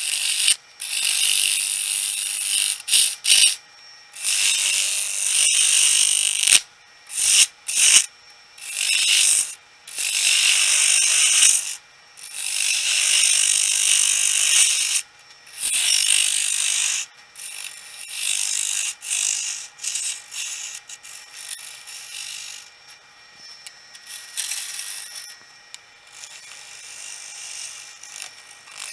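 Handheld power carving tool grinding the outside of a wet sweet gum birdhouse blank, in repeated stop-start passes of one to three seconds with short breaks, lighter and more broken near the end.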